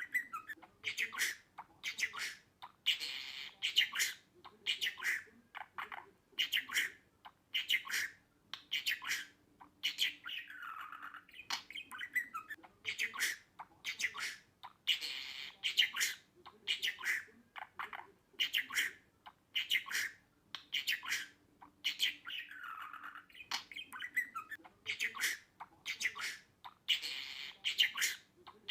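Budgerigar chattering in quick runs of short chirps, squawks and down-sweeping warbles, the looped sequence repeating about every 12 seconds.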